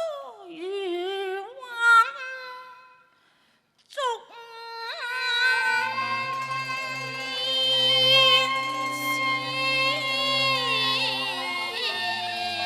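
Cantonese opera music: a drawn-out, wavering sung phrase fades away, a brief pause follows about three seconds in, then the accompanying ensemble takes up a sustained melody over a low bass line.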